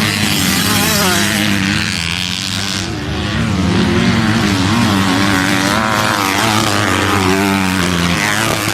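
Motorcycle engines running loud and steady, the pitch wavering up and down as the revs change.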